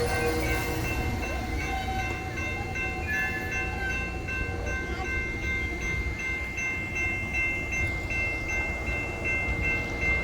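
Amtrak Southwest Chief passenger train rumbling at the station, with a steady high ringing tone throughout.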